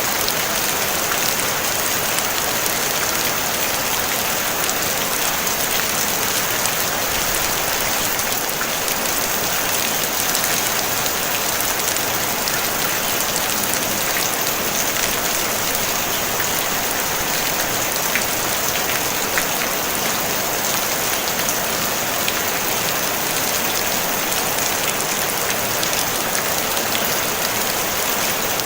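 Steady rain falling on a tin roof: an even, unbroken hiss with fine patter of individual drops on the metal, no thunder.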